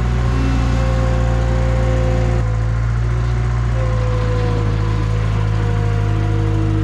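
Toyota SDK7 skid steer's engine running steadily, with a wavering higher whine over its hum; the sound changes about two and a half seconds in.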